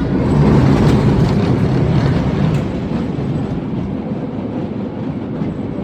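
Traffic noise in a city street: a heavy vehicle rumbling past, loudest in the first two to three seconds and then easing off.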